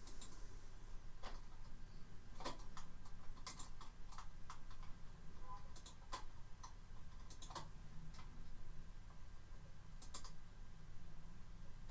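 Faint, scattered clicks and ticks at uneven intervals over a steady low hum.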